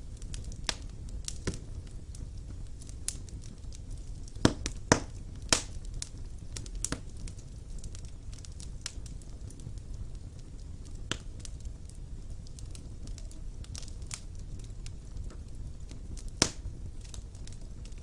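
Wood fire burning in a stone fireplace: a low steady rumble of flames with irregular crackles and pops, a few sharp pops louder than the rest.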